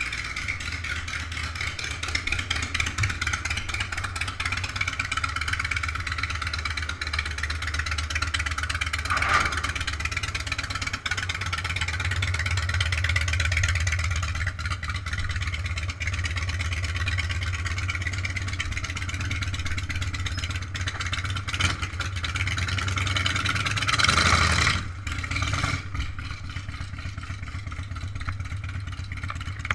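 Steady wind rumble on the microphone and road noise from a bicycle ride, poor-quality sound throughout, with louder swells about nine seconds in and around twenty-four seconds.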